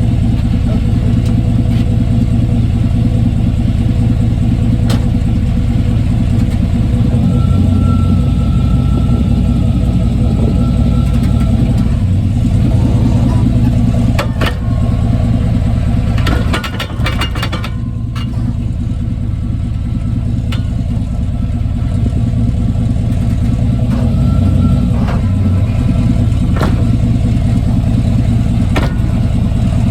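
Steady drone of a 1995 Chevy Silverado's 5.7-litre V8 and drivetrain, heard through a phone taped under the truck. Sharp knocks come through every few seconds, with a quick cluster of them about two-thirds of the way in, from a truck with a clunking noise somewhere underneath in the drivetrain.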